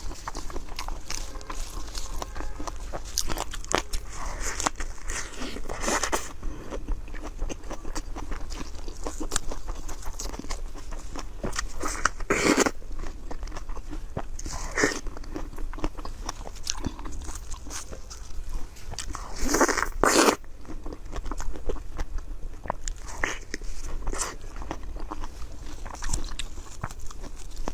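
A person eating close to the microphone: continual chewing and crunchy bites with small wet clicks. There are a few louder bursts about halfway through and again about two-thirds of the way in.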